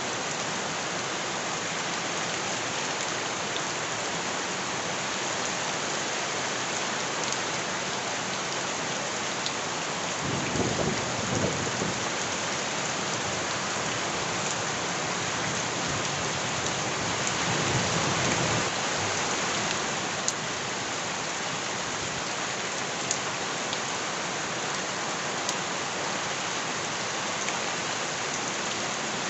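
Steady heavy rain hissing on surfaces, with two short low rumbles about ten and seventeen seconds in.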